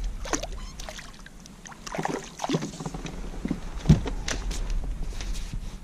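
Scattered knocks and light splashes of a small fish being handled aboard a plastic fishing kayak, the loudest knock about four seconds in.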